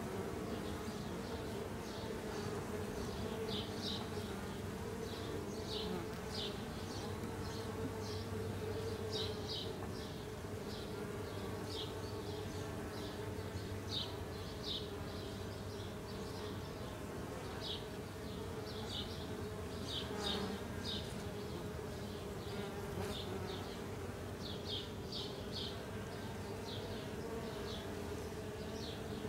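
Honey bees buzzing as a steady hum around an opened nuc box during a frame inspection, with short high chirps repeating irregularly over it.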